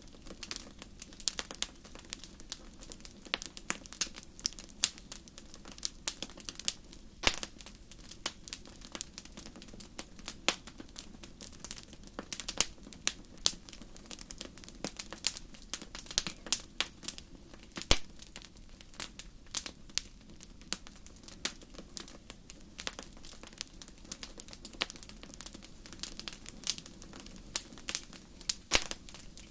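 Wood campfire crackling, with irregular sharp pops several times a second over a steady low background.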